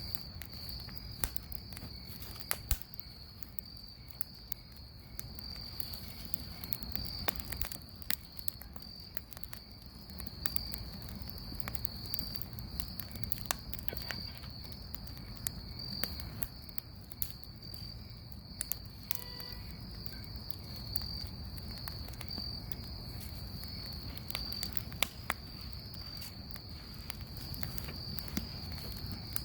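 Bonfire crackling, with sharp pops scattered irregularly throughout, over a steady high chirring of insects such as crickets.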